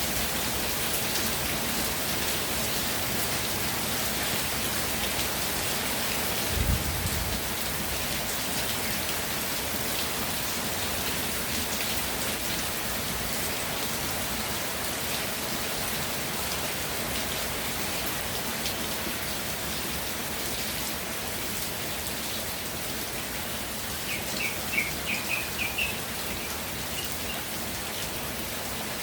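Steady rain falling, an even hiss of drops hitting the ground and surfaces. A single brief low thump comes about a quarter of the way in, and a short run of high chirps sounds near the end.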